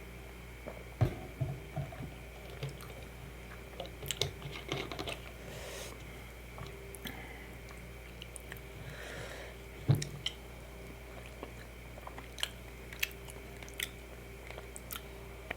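Close-miked mouth sounds of eating: irregular chewing with wet clicks, smacks and crunches, the two loudest about a second in and at about ten seconds, over a faint steady hum.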